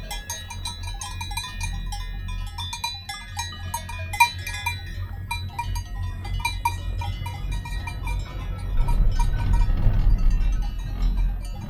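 Several cowbells on grazing livestock clanking in an irregular jangle. Under them is a low rumble, which swells about nine seconds in.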